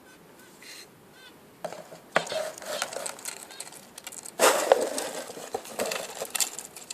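Pet budgerigars calling: a few small chirps, then from about a second and a half in, loud, harsh chattering that peaks past the middle.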